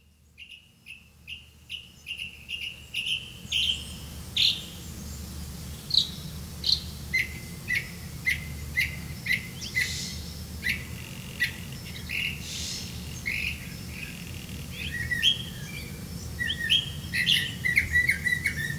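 A small bird chirping repeatedly: short, sharp chirps, quick and even at first, then slower, with a busier flurry near the end, over a low steady hum.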